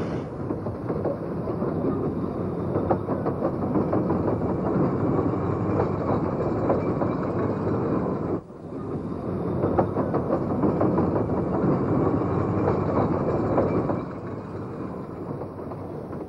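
Narrow-gauge railway wagons rolling along the track, with a steady rumble and rapid clattering of wheels on rail joints. There is a short break about halfway through, and the sound is quieter near the end.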